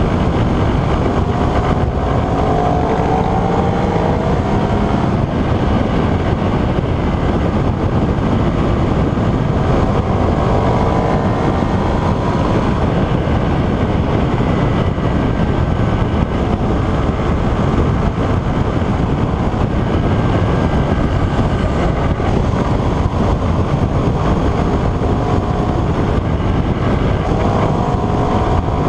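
Ducati Streetfighter 848's L-twin engine running under way at road speed, heard from on the bike, mixed with heavy wind rush on the microphone. The engine note climbs in pitch as the bike accelerates a few seconds in, again around ten seconds in, and near the end.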